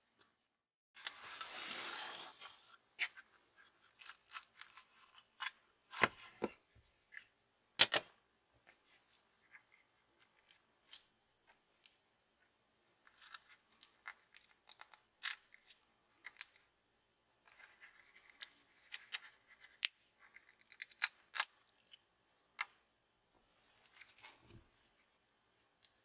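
Small hand-work sounds at a hobby bench: a short rustle about a second in, then a long run of irregular sharp clicks, snaps and taps, as small tools and hard parts are handled.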